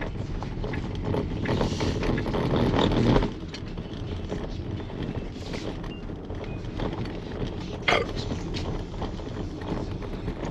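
Car driving, with steady engine and road noise heard from inside the cabin; it is louder for about the first three seconds and then drops suddenly. There is a single sharp knock near the end.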